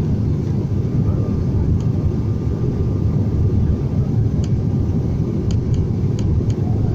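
Steady low drone of an airliner's turboprop engines and airflow, heard from inside the passenger cabin in flight, with a faint steady whine above it.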